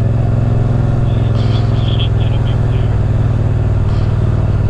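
Motorcycle engine running at steady revs, a constant low drone that holds its pitch.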